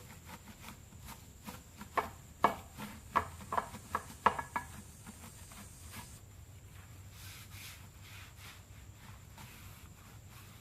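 A steel truck wheel being scrubbed clean with a brush: a quick run of sharp knocks and scrapes in the first few seconds, then fainter rubbing and ticks.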